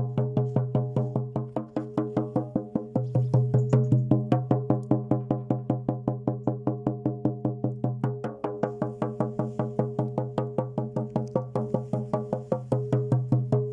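A drum beaten in a fast, steady rhythm, about five even beats a second, each beat with a ringing low tone.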